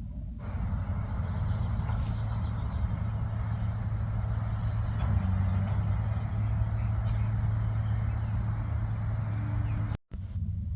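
Heavy truck's diesel engine running steadily with a low, even drone. The sound cuts out for an instant near the end.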